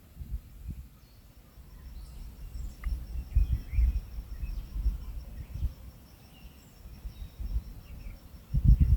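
Night insects, one keeping up a faint, even, high pulsed trill, with a few short bird chirps, over irregular low rumbling thumps that are the loudest sound.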